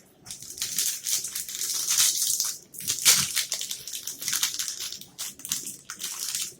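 Plastic wrapper of a Gainomax caramel triple nut protein bar crinkling and crackling in the hands as it is handled and opened.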